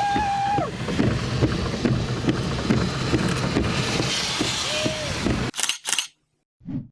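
Steady rushing wind noise on the microphone, with a couple of brief voice sounds; it breaks off suddenly about five and a half seconds in.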